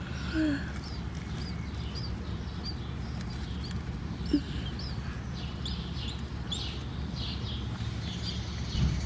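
Small bird chirping over and over, short high calls coming about one or two a second, which she takes for the parent bird calling near the nest. A steady low rumble runs underneath, and there is one brief knock about four seconds in.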